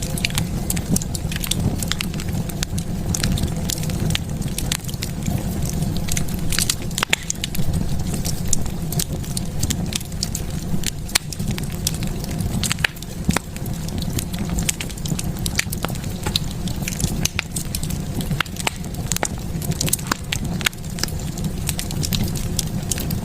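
Fire burning in a fireplace, crackling with frequent irregular sharp pops and snaps over a steady low rumble of the flames.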